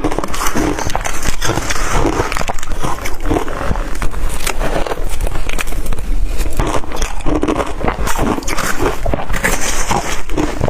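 Close-up crunching of blender-crushed ice being bitten and chewed, a dense, continuous crackle of small cracks.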